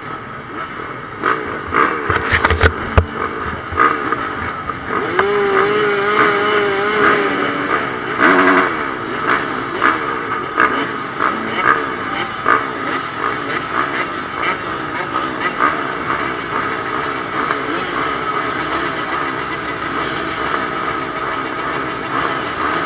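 Motocross bikes racing on the track, their engines revving up and down. One engine note is held high and wavering for a couple of seconds about five seconds in. Several sharp knocks sound in the first few seconds and again about eight seconds in.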